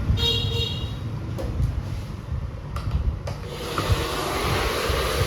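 A few handling clicks and knocks, then about three seconds in a hot-air dryer switches on and blows with a steady rushing hiss, drying freshly water-washed electronics.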